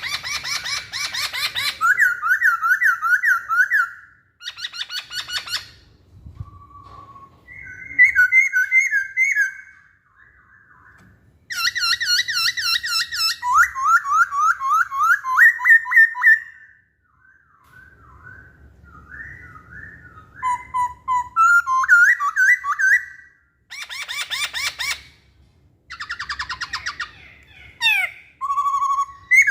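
Masked laughingthrush (poksay hongkong) singing: phrases of rapid, repeated whistled notes alternate with harsher chattering bursts, separated by short pauses.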